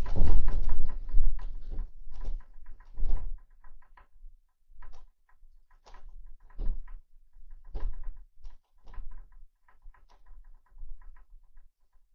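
A house rattling in an earthquake. A loud rumbling clatter at first, then irregular knocks and short rattles, like doors and fittings shaking, that thin out over the following seconds.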